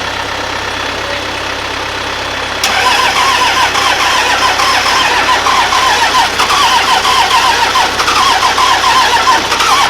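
Starter cranking a freshly installed 24-valve Cummins 5.9 inline-six diesel on its first start attempt after an engine swap. About two and a half seconds in it engages with a click, then it cranks steadily with a rhythmic pulsing of roughly four or five beats a second until just before the end.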